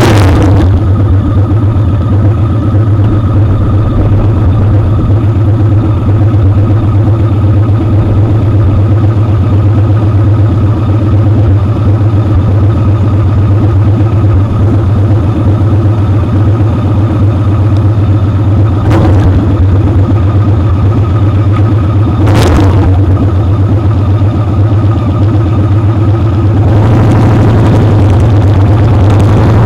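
Motorcycle engine running steadily under way, heard close up from a camera on the foot peg, with road and wind noise. Two short rushing sounds break in a few seconds apart past the middle, and the engine note changes and grows slightly louder near the end.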